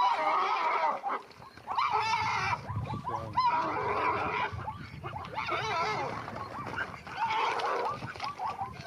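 An animal squealing, with many overlapping wavering high cries.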